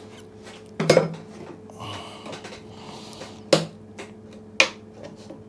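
Scraper knocking and scraping against a motorcycle fuel tank while chipping off thick old tank sealer: three sharp knocks, about a second in, at three and a half seconds and at four and a half, with quieter scraping between them over a faint steady hum.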